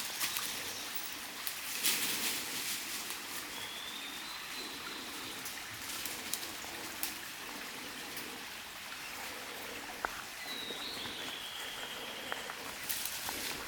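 Wet woodland ambience: a steady hiss with scattered small ticks and crackles, and two long, thin whistled calls from a wild bird, one about three seconds in and one about ten seconds in.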